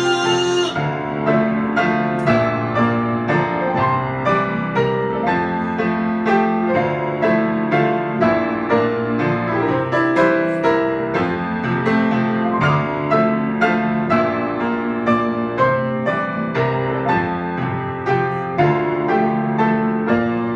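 Piano playing an instrumental interlude between sung verses, chords and melody struck in a steady beat of about two notes a second.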